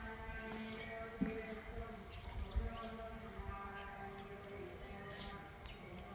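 A small bird repeating a short, high, stepped chirping phrase, over a background of steady pitched tones.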